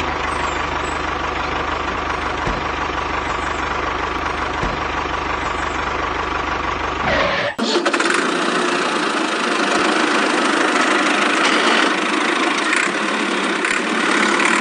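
Dubbed engine sound effect running steadily with a low rumble. About seven and a half seconds in, it cuts abruptly to a different, higher, thinner engine sound.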